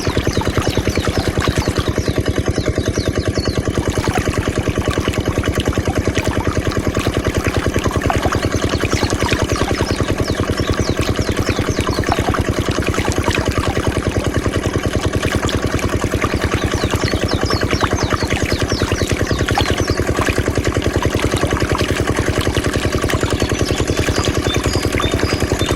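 Mini diesel engine driving a water pump, running steadily under load with an even, rapid firing beat.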